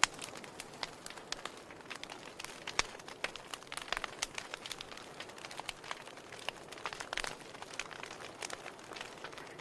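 Wood fire crackling in a fireplace: irregular sharp pops and snaps of burning firewood over a soft steady hiss.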